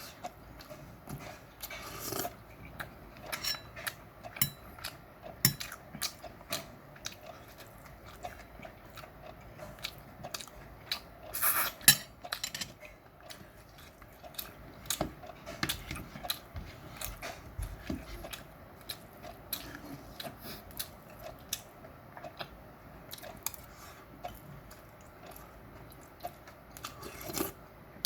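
A person chewing and biting meat close to the microphone, with frequent small clicks and clinks of utensils on dishes. The louder clusters come about two seconds in, around the middle and near the end.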